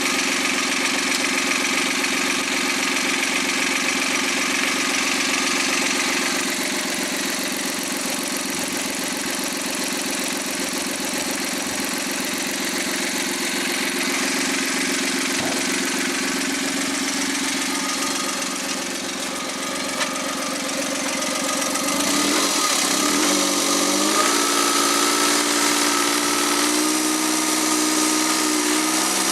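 Overhauled Suzuki K6A 660 cc three-cylinder turbo engine running steadily at idle on a test run. About two-thirds of the way through, the revs rise and then hold at a higher speed.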